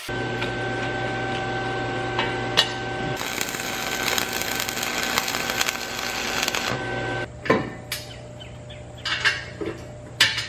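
A power tool runs steadily for about seven seconds, with a harsher hiss through the middle, then stops; a few sharp metallic knocks and clanks follow.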